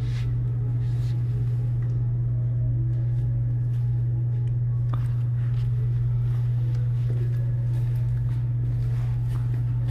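Steady low mechanical hum, one constant drone with no change in pitch or level, with faint scattered background sounds above it.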